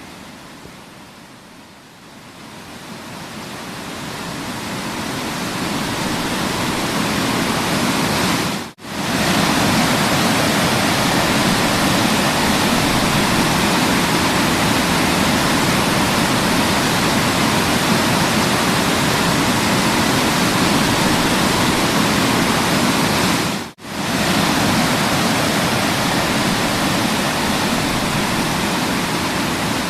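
Waterfall rushing, a steady wash of water noise that swells up over the first few seconds and then holds level. It drops out for an instant twice, about nine and twenty-four seconds in.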